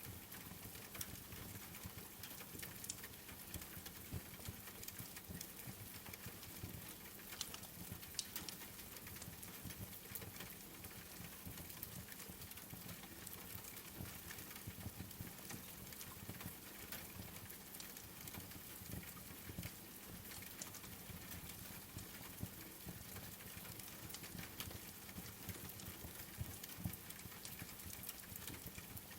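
Wood fire crackling, with frequent small pops and snaps, over the steady hiss of falling rain.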